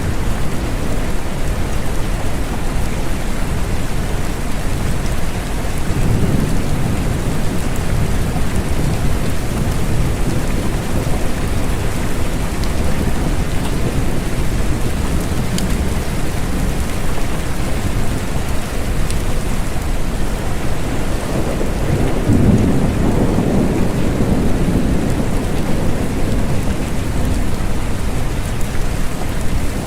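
Steady rain falling, with low thunder rumbling up twice, about six seconds in and again about twenty-two seconds in.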